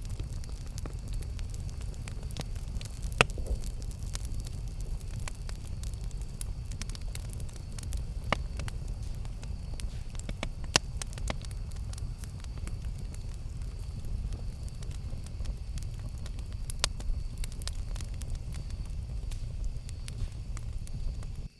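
Campfire burning: a steady low rumble of flame, with scattered sharp crackles and pops from the burning wood and a few louder pops now and then.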